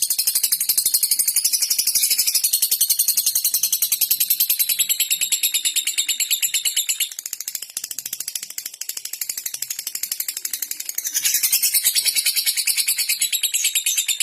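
Lovebird calling in a long, unbroken run of fast, high-pitched ticks: the rapid clicking chatter that keepers call ngetik, used to set other lovebirds chattering. It drops quieter for a few seconds in the middle, then comes back at full strength.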